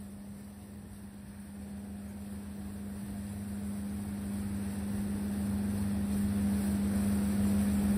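Boat motor running at a steady pitch, getting gradually louder.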